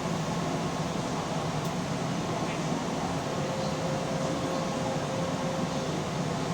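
Keihan commuter electric train running between stations, a steady rumble of running gear and motors heard from inside the front car. A faint steady whine joins in for a few seconds in the middle.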